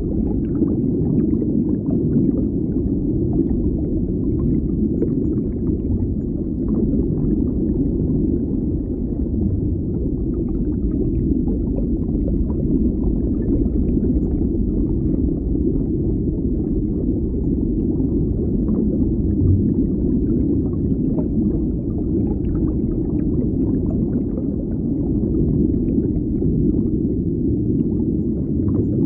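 Underwater ambience: a steady, low, muffled rumble of moving water, with faint scattered clicks and crackles throughout.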